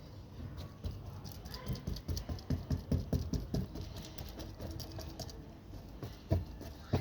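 Irregular light tapping and knocking, with a quick run of taps in the middle and a sharper knock near the end.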